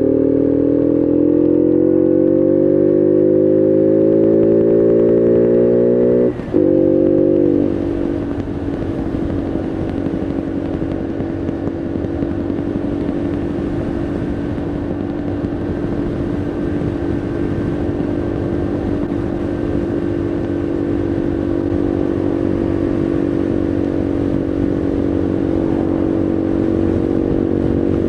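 Bullit Heritage 125cc monkey bike's single-cylinder engine pulling hard in gear, its pitch climbing steadily for about six seconds. It cuts out briefly for a gear change, climbs again for a moment, then settles to a steady cruise.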